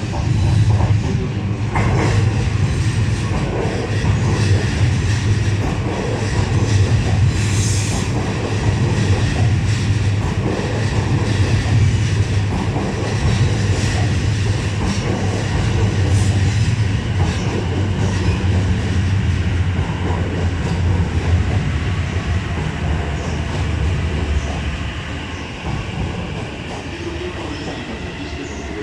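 Electric train running past along the platform: a steady low hum from the motors with wheels clattering on the rails. It fades somewhat near the end.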